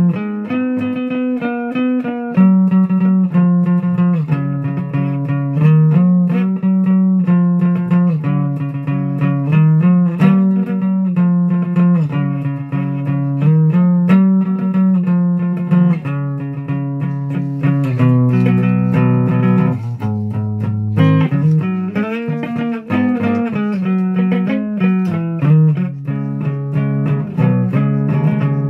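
Guitar music: a continuous run of plucked notes over a steady low bass line.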